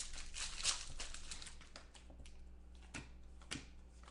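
Rustling and a run of small sharp clicks from hands working at a desk, denser at first and thinning out after about two seconds.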